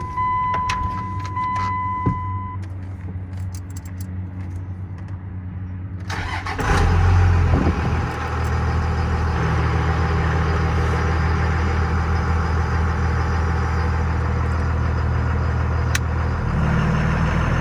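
A steady electronic warning tone from the dash sounds for the first couple of seconds. About six seconds in, the Dodge Ram's 5.9-litre Cummins turbo-diesel straight-six cranks and catches, and then settles into a steady idle.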